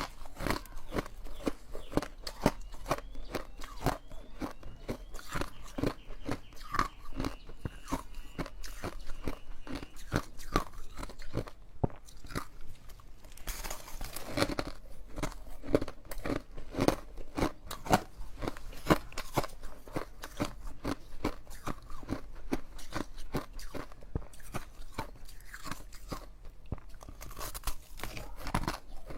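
Close-miked crunching of ice being bitten and chewed: a rapid, irregular run of sharp crunches, several a second.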